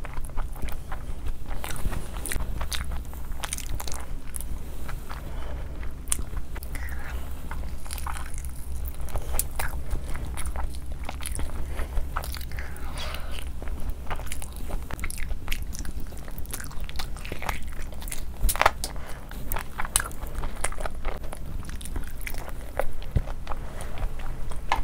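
Close-miked chewing and wet mouth sounds of someone eating saucy fried rice and chicken, with many short sharp smacks and clicks, over a steady low hum.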